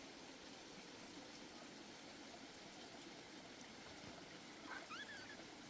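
Faint, steady rush of flowing stream water, with one short high call that rises and falls about five seconds in.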